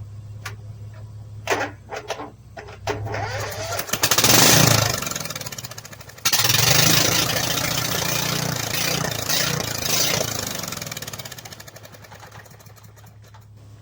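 Lawn tractor's small engine, its carburetor freshly rebuilt, being started: a few clicks, a short burst of running about four seconds in that dies away, then it catches suddenly about six seconds in and runs for several seconds before fading down. It is running on choke and dies once the choke is taken off.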